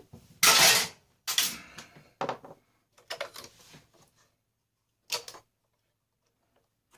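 Parts of a vacuum cleaner being handled and tossed aside during dismantling: plastic and metal pieces clattering and knocking in about five separate bursts, the loudest about half a second in.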